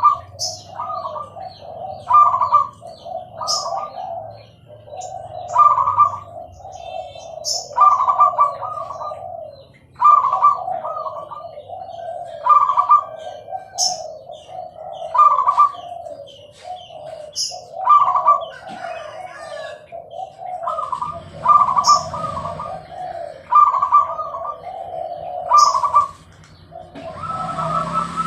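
Zebra doves (perkutut) cooing again and again, each rolling phrase of coos coming about every one to two seconds, with short high chirps between them. A rushing noise comes in near the end.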